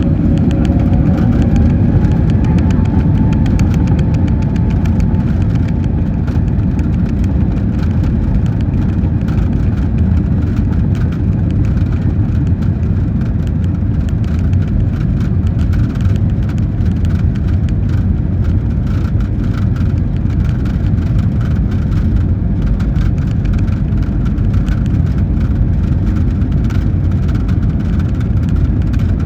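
Airbus A321neo's Pratt & Whitney PW1100G geared turbofans heard from inside the cabin, spooling up to takeoff power with a rising whine over the first few seconds, then a steady, loud rumble through the takeoff roll.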